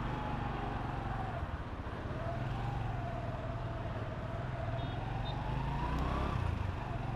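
Motorcycle engine running as the bike pulls away at low speed, its pitch wavering up and down with the throttle and climbing to a peak about six seconds in before dropping back.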